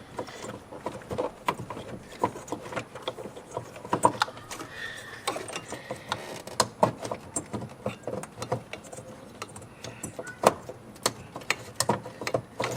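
Irregular plastic clicks, taps and rattles of hands working the old LED headlight bulb and its wiring connector loose behind a Dodge Charger's headlight housing.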